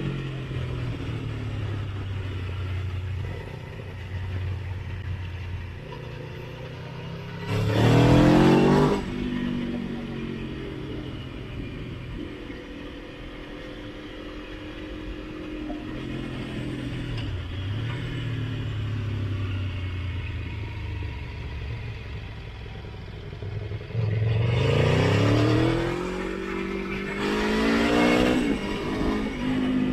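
Motorcycle engine on the road, easing off with falling pitch, then revving hard in a quick rising sweep about eight seconds in. It runs on with its pitch drifting up and down, then accelerates hard again near the end in two rising sweeps, an upshift between them.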